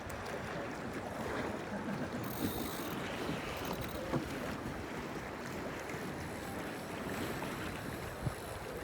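Wind rushing over the microphone and water washing past the hull of a Marieholm IF sailboat under sail, steady throughout, with two brief knocks about four and eight seconds in.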